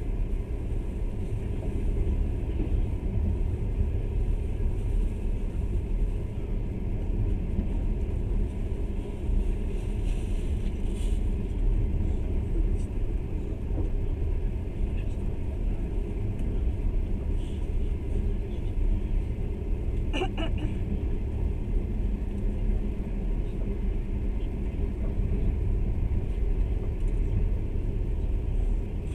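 Steady low rumble of a moving passenger train, heard from inside the carriage, with a brief higher-pitched sound about twenty seconds in.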